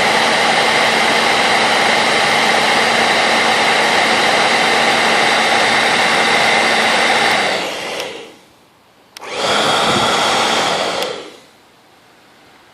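Hair dryer blowing steadily with a constant whine, then switched off about eight seconds in and spinning down. After a click it is switched back on briefly, then off again near the end.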